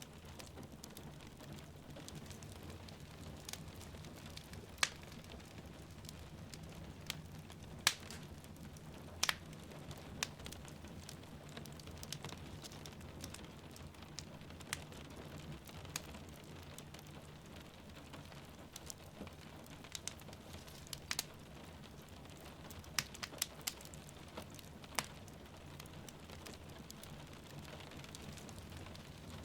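Wood fire crackling and popping in a fireplace, with sharp irregular pops scattered over a steady hiss of rain falling outside.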